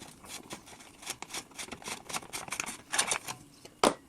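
Bicycle front wheel being taken off: a string of irregular clicks and light rattles, with one sharper knock near the end.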